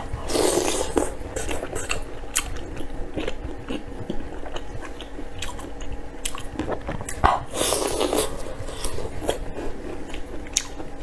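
A person biting and chewing food close to the microphone: many short wet mouth clicks, with two louder noisy stretches about half a second in and around seven and a half seconds.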